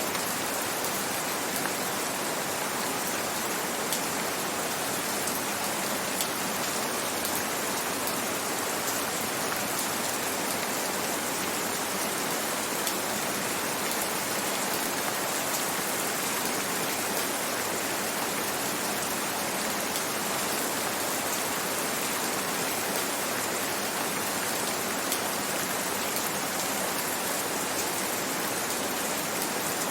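Steady gentle rain: an even hiss with faint scattered drop ticks.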